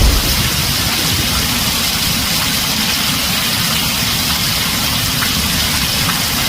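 Heavy rain drumming steadily on a tin roof, a dense even hiss with a low rumble beneath it. The tail of a thunder rumble dies away in the first moment.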